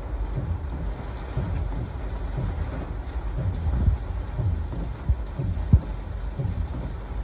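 Heavy thunderstorm rain hissing steadily while strong gusts of wind buffet the microphone in an irregular low rumble. There are brief thumps, the loudest near the middle and about two-thirds of the way in.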